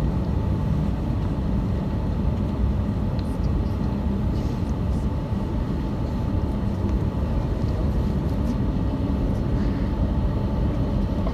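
Train running, a steady low rumble with no sudden events.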